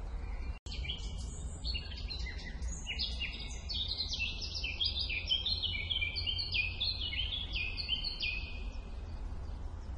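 Songbirds singing: a quick, dense run of short high chirps and trills that starts about a second in and stops shortly before the end, over a steady low rumble.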